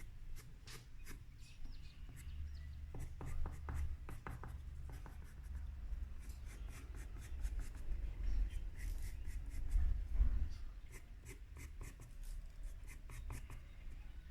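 White pencil scratching on paper in clusters of quick short strokes, laying in the highlights on a drawing, over a low rumble.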